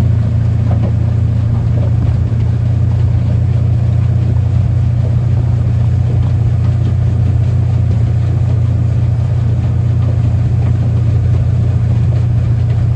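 Engine running steadily at a constant speed during an oil-pressure test, an engine its owner describes as not well but not dead.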